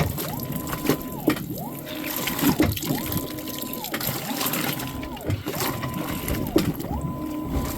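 Soapy water sloshing and squelching in a steady rhythm, about once every second and a half, with a faint tone that rises, holds and falls again in each cycle.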